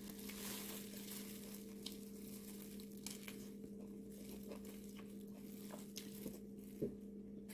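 Faint eating sounds: soft scattered clicks and taps of chewing and handling food, with a small knock near the end, over a steady low hum.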